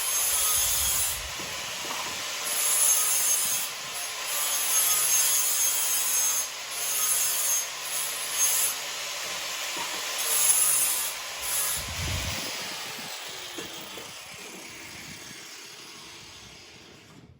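Abrasive grinding or cutting on steel: a harsh, steady hiss that stops and starts every second or two, then trails off over the last few seconds.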